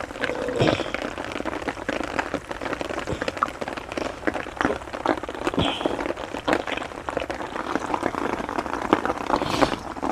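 Heavy rain falling close by, a dense, steady spatter of drops striking a tarp overhead.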